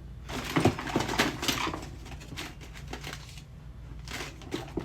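Rummaging through things by hand: a quick run of irregular clicks and rustles in the first couple of seconds, then a few fainter ones.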